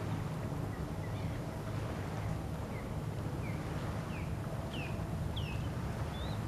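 A bird calling: a run of short down-slurred chirps, about one every second or less, rising in pitch and getting louder, ending in two flatter high notes. Underneath is a steady low rumble of wind on the microphone.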